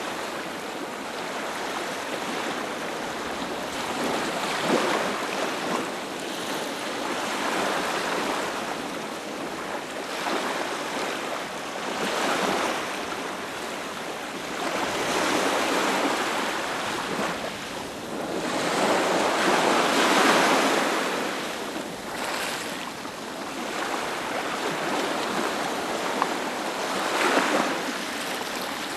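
Ocean surf breaking on a beach: a continuous wash of waves that swells and falls back every few seconds, with the biggest surge about two-thirds of the way through.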